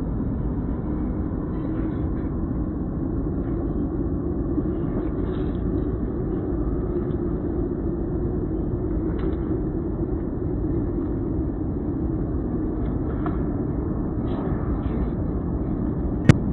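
Steady, muffled low rumble with no music, with a single sharp click near the end.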